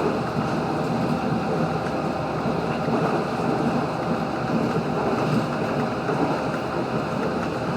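Steady running noise inside a moving 3100-series diesel railcar: wheels on the track and the train's drive, an even rumble with no clear events.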